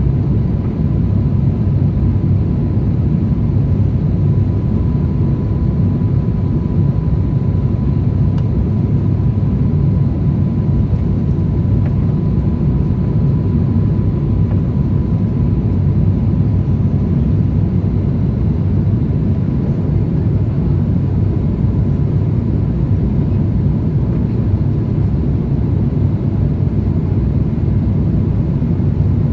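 Steady low rumble of cabin noise inside an Airbus A350-1000 airliner in flight, with a faint steady high tone over it.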